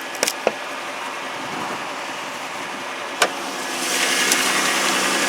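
2010 Chrysler Sebring's 3.5-litre V6 idling steadily just after a cold start in deep cold, with a few sharp clicks in the first second and another a little past three seconds. The engine sound grows louder about four seconds in.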